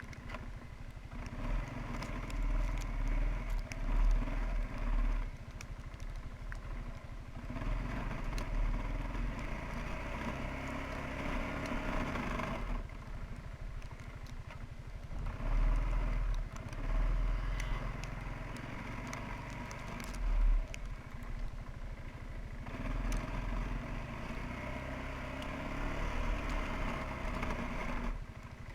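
Small 300 cc ATV engine running, its level rising and falling in stretches of a few seconds, with quieter dips about a third and three quarters of the way through.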